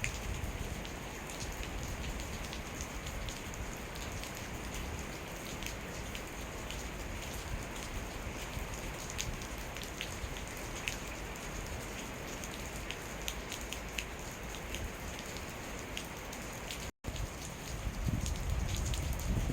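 Steady rain falling, an even hiss with many scattered sharp drips of individual drops. The sound cuts out for a moment near the end, then comes back with a louder low rumble underneath.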